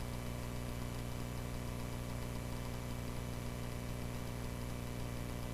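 Cessna 140A's piston engine running steadily: an even, low drone that does not change.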